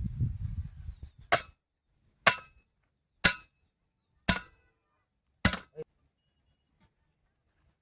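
Five sharp hammer strikes about a second apart, each with a brief metallic ring, as tent pegs are driven into the ground. A low rumbling handling noise comes first, and the last strike is followed by a smaller knock.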